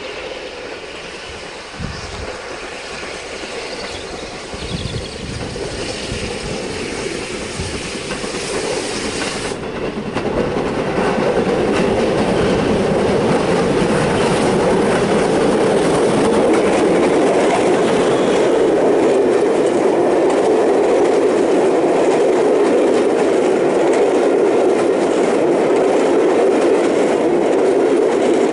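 A locomotive-hauled train coming up the line and passing close by. It grows steadily louder, is loudest from about ten seconds in, and starts to fade only right at the end as it goes by.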